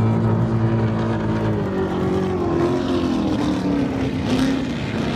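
Offshore racing powerboat engines running at speed. Their pitch falls steadily from about one and a half seconds in, as a boat goes by or comes off the throttle.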